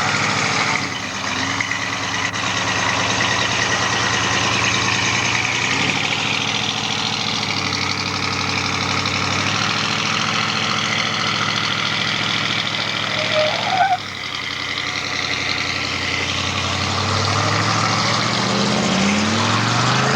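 Car engine idling steadily, shifting pitch a few times, then revving up with a rising pitch in the last couple of seconds.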